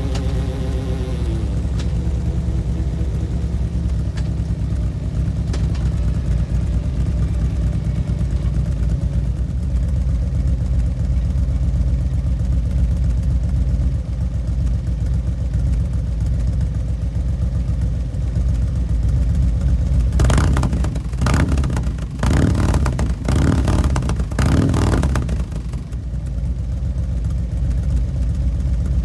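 2013 Harley-Davidson Road Glide Custom's Twin Cam 103 V-twin through an S&S Sidewinder 2-into-1 exhaust. It settles from a rev back to a steady idle at the start, then is revved in a few quick throttle blips about two-thirds of the way through before idling again.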